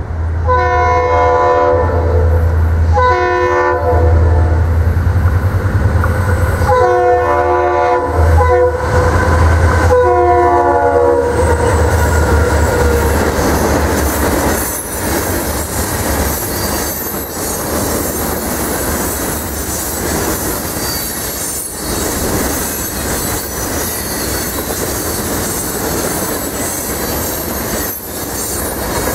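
Florida East Coast SD40-2 diesel locomotives blow four horn blasts for a grade crossing in the first dozen seconds, over the low rumble of their EMD 645 two-stroke diesel engines. Loaded rock hopper cars then roll past, wheels clicking over the rail joints and squealing.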